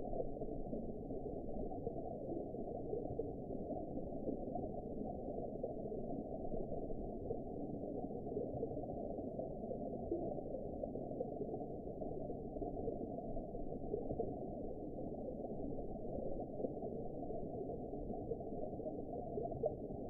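Underwater ambience: a steady, muffled low rush and gurgle with no high sounds and no separate events.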